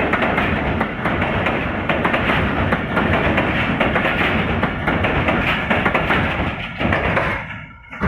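Khyber Mail passenger train running past, its wheels clattering over the rail joints. The noise falls away sharply about seven and a half seconds in as the last coaches go by.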